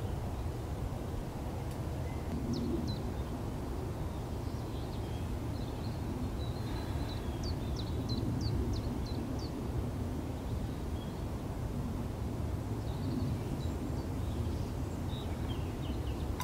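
Steady low wind rumble on the microphone, with a small songbird giving quick runs of short high chirps several times.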